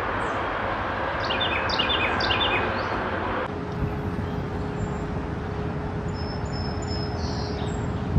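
A small bird chirping: a quick run of short falling chirps in the first half, then thin high notes, over a steady background hiss that changes abruptly partway through.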